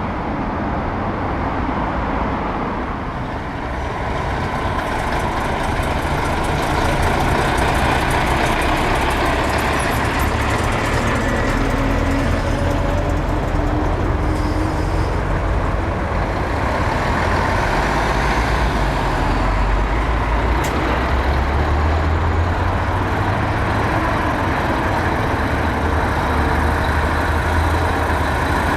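Heavy diesel trucks running past at close range, a continuous engine rumble, with one engine's pitch climbing as it pulls away about a third of the way in.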